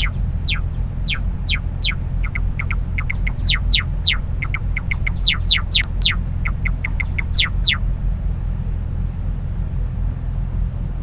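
Recorded natural songbird song played back as a reference sample: a run of quick downward-sweeping whistled notes, longer sweeps mixed with bursts of short fast ones, lasting about eight seconds, over a steady low rumble.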